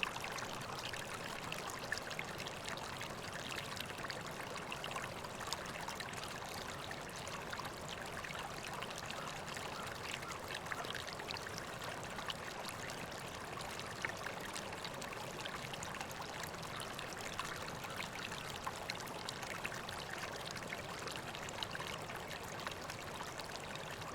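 River water flowing steadily, a continuous rushing with small splashes and burbles.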